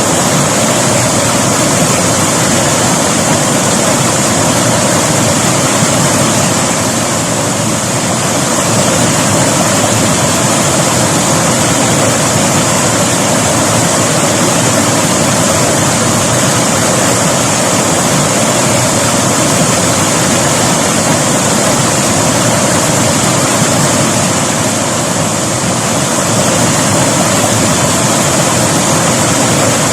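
River water rushing steadily over rocks, loud and unbroken, easing slightly twice.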